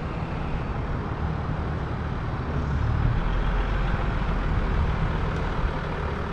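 Mercedes-Benz S350d 4MATIC (W222) driving slowly toward the microphone, its inline-six diesel engine running as a low rumble that grows louder about halfway through as the car draws near.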